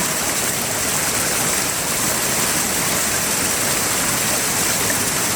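Large waterfall rushing, a steady, unbroken roar of falling water.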